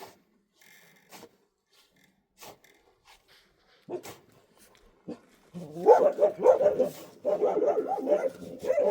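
A dog barking continuously, starting a little over halfway through, after a few faint knocks.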